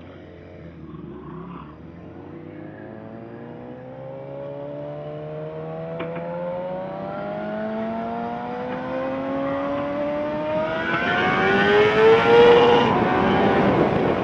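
Suzuki GSX-R750's inline-four engine pulling under a long, steady acceleration, its pitch rising slowly and getting louder, with wind rush building near the end.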